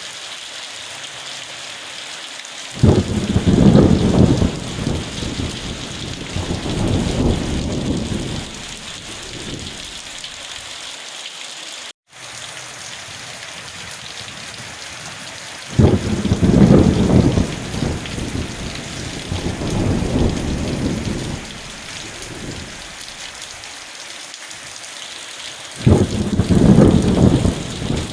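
Steady heavy rain hissing, with three long, loud rolls of thunder rumbling through it, the first a few seconds in, one just past the middle and one near the end. There is a brief drop-out in the sound near the middle.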